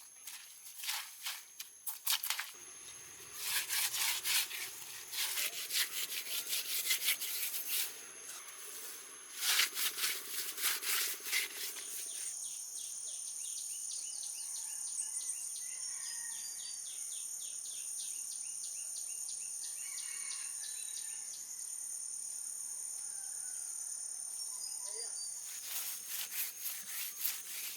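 Steady high insect chirring. Over it, a run of quick sharp clicks and knocks fills the first twelve seconds, then the insects carry on alone until the clicks come back briefly near the end.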